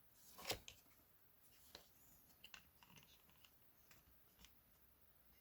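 Faint, scattered clicks and taps of plastic keyboard parts being handled, the loudest about half a second in, the rest light and irregular.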